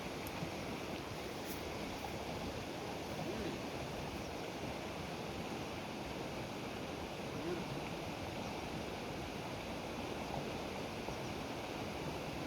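Steady rush of fast-flowing river water from a waterfall pool, an even noise with no breaks.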